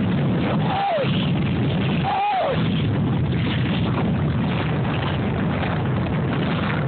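Steady loud roar of tornado winds buffeting the microphone. Two short falling cries of a person's voice come through it about one and two seconds in.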